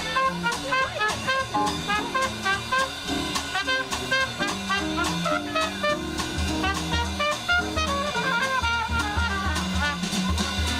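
A small live jazz band playing an upbeat tune, horns carrying the melody over drum kit and bass with a steady beat.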